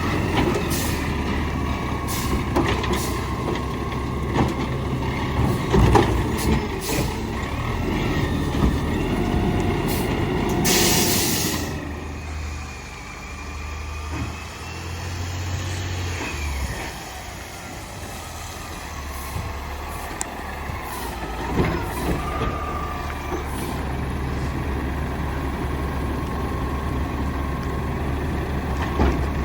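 Garbage truck engine running steadily under scattered clanks and knocks, with a loud burst of air hiss lasting about a second, roughly ten seconds in.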